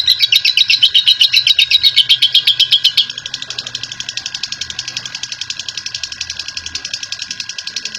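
Lovebird ngekek: a long, rapid chattering trill of sharp, high chirps, about ten a second. It is loud for the first three seconds, then drops to a quieter level and carries on. A faint steady high tone runs beneath.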